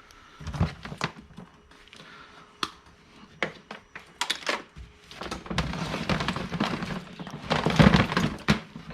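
Scrap and junk being handled by hand: scattered knocks and thunks of objects set down or bumped, then a few seconds of busy rummaging and clattering through a pile, loudest near the end.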